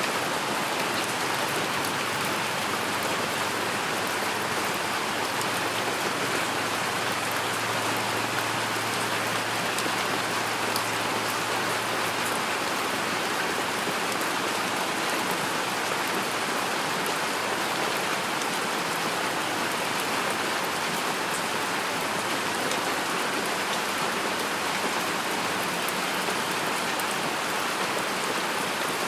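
Heavy rain falling steadily, a dense, even hiss of drops with no pauses or swells.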